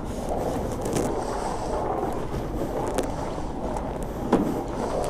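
Self-serve car wash pressure wand spraying onto a motorcycle: a steady hiss of spray, with a few sharp clicks.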